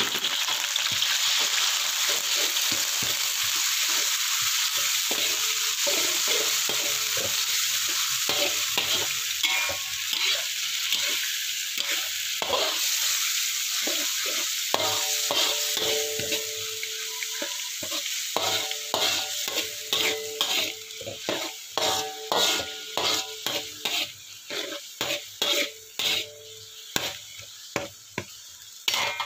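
Chopped giant clam meat sizzling in hot oil with garlic and shallots in a metal wok while a spatula stirs it. The sizzle is dense and steady at first, and in the second half thins into a run of short, separate strokes of the spatula scraping the wok.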